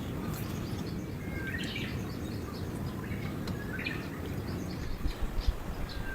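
Birds chirping, three short calls about two seconds apart, over a steady low rumble, with a few low bumps near the end.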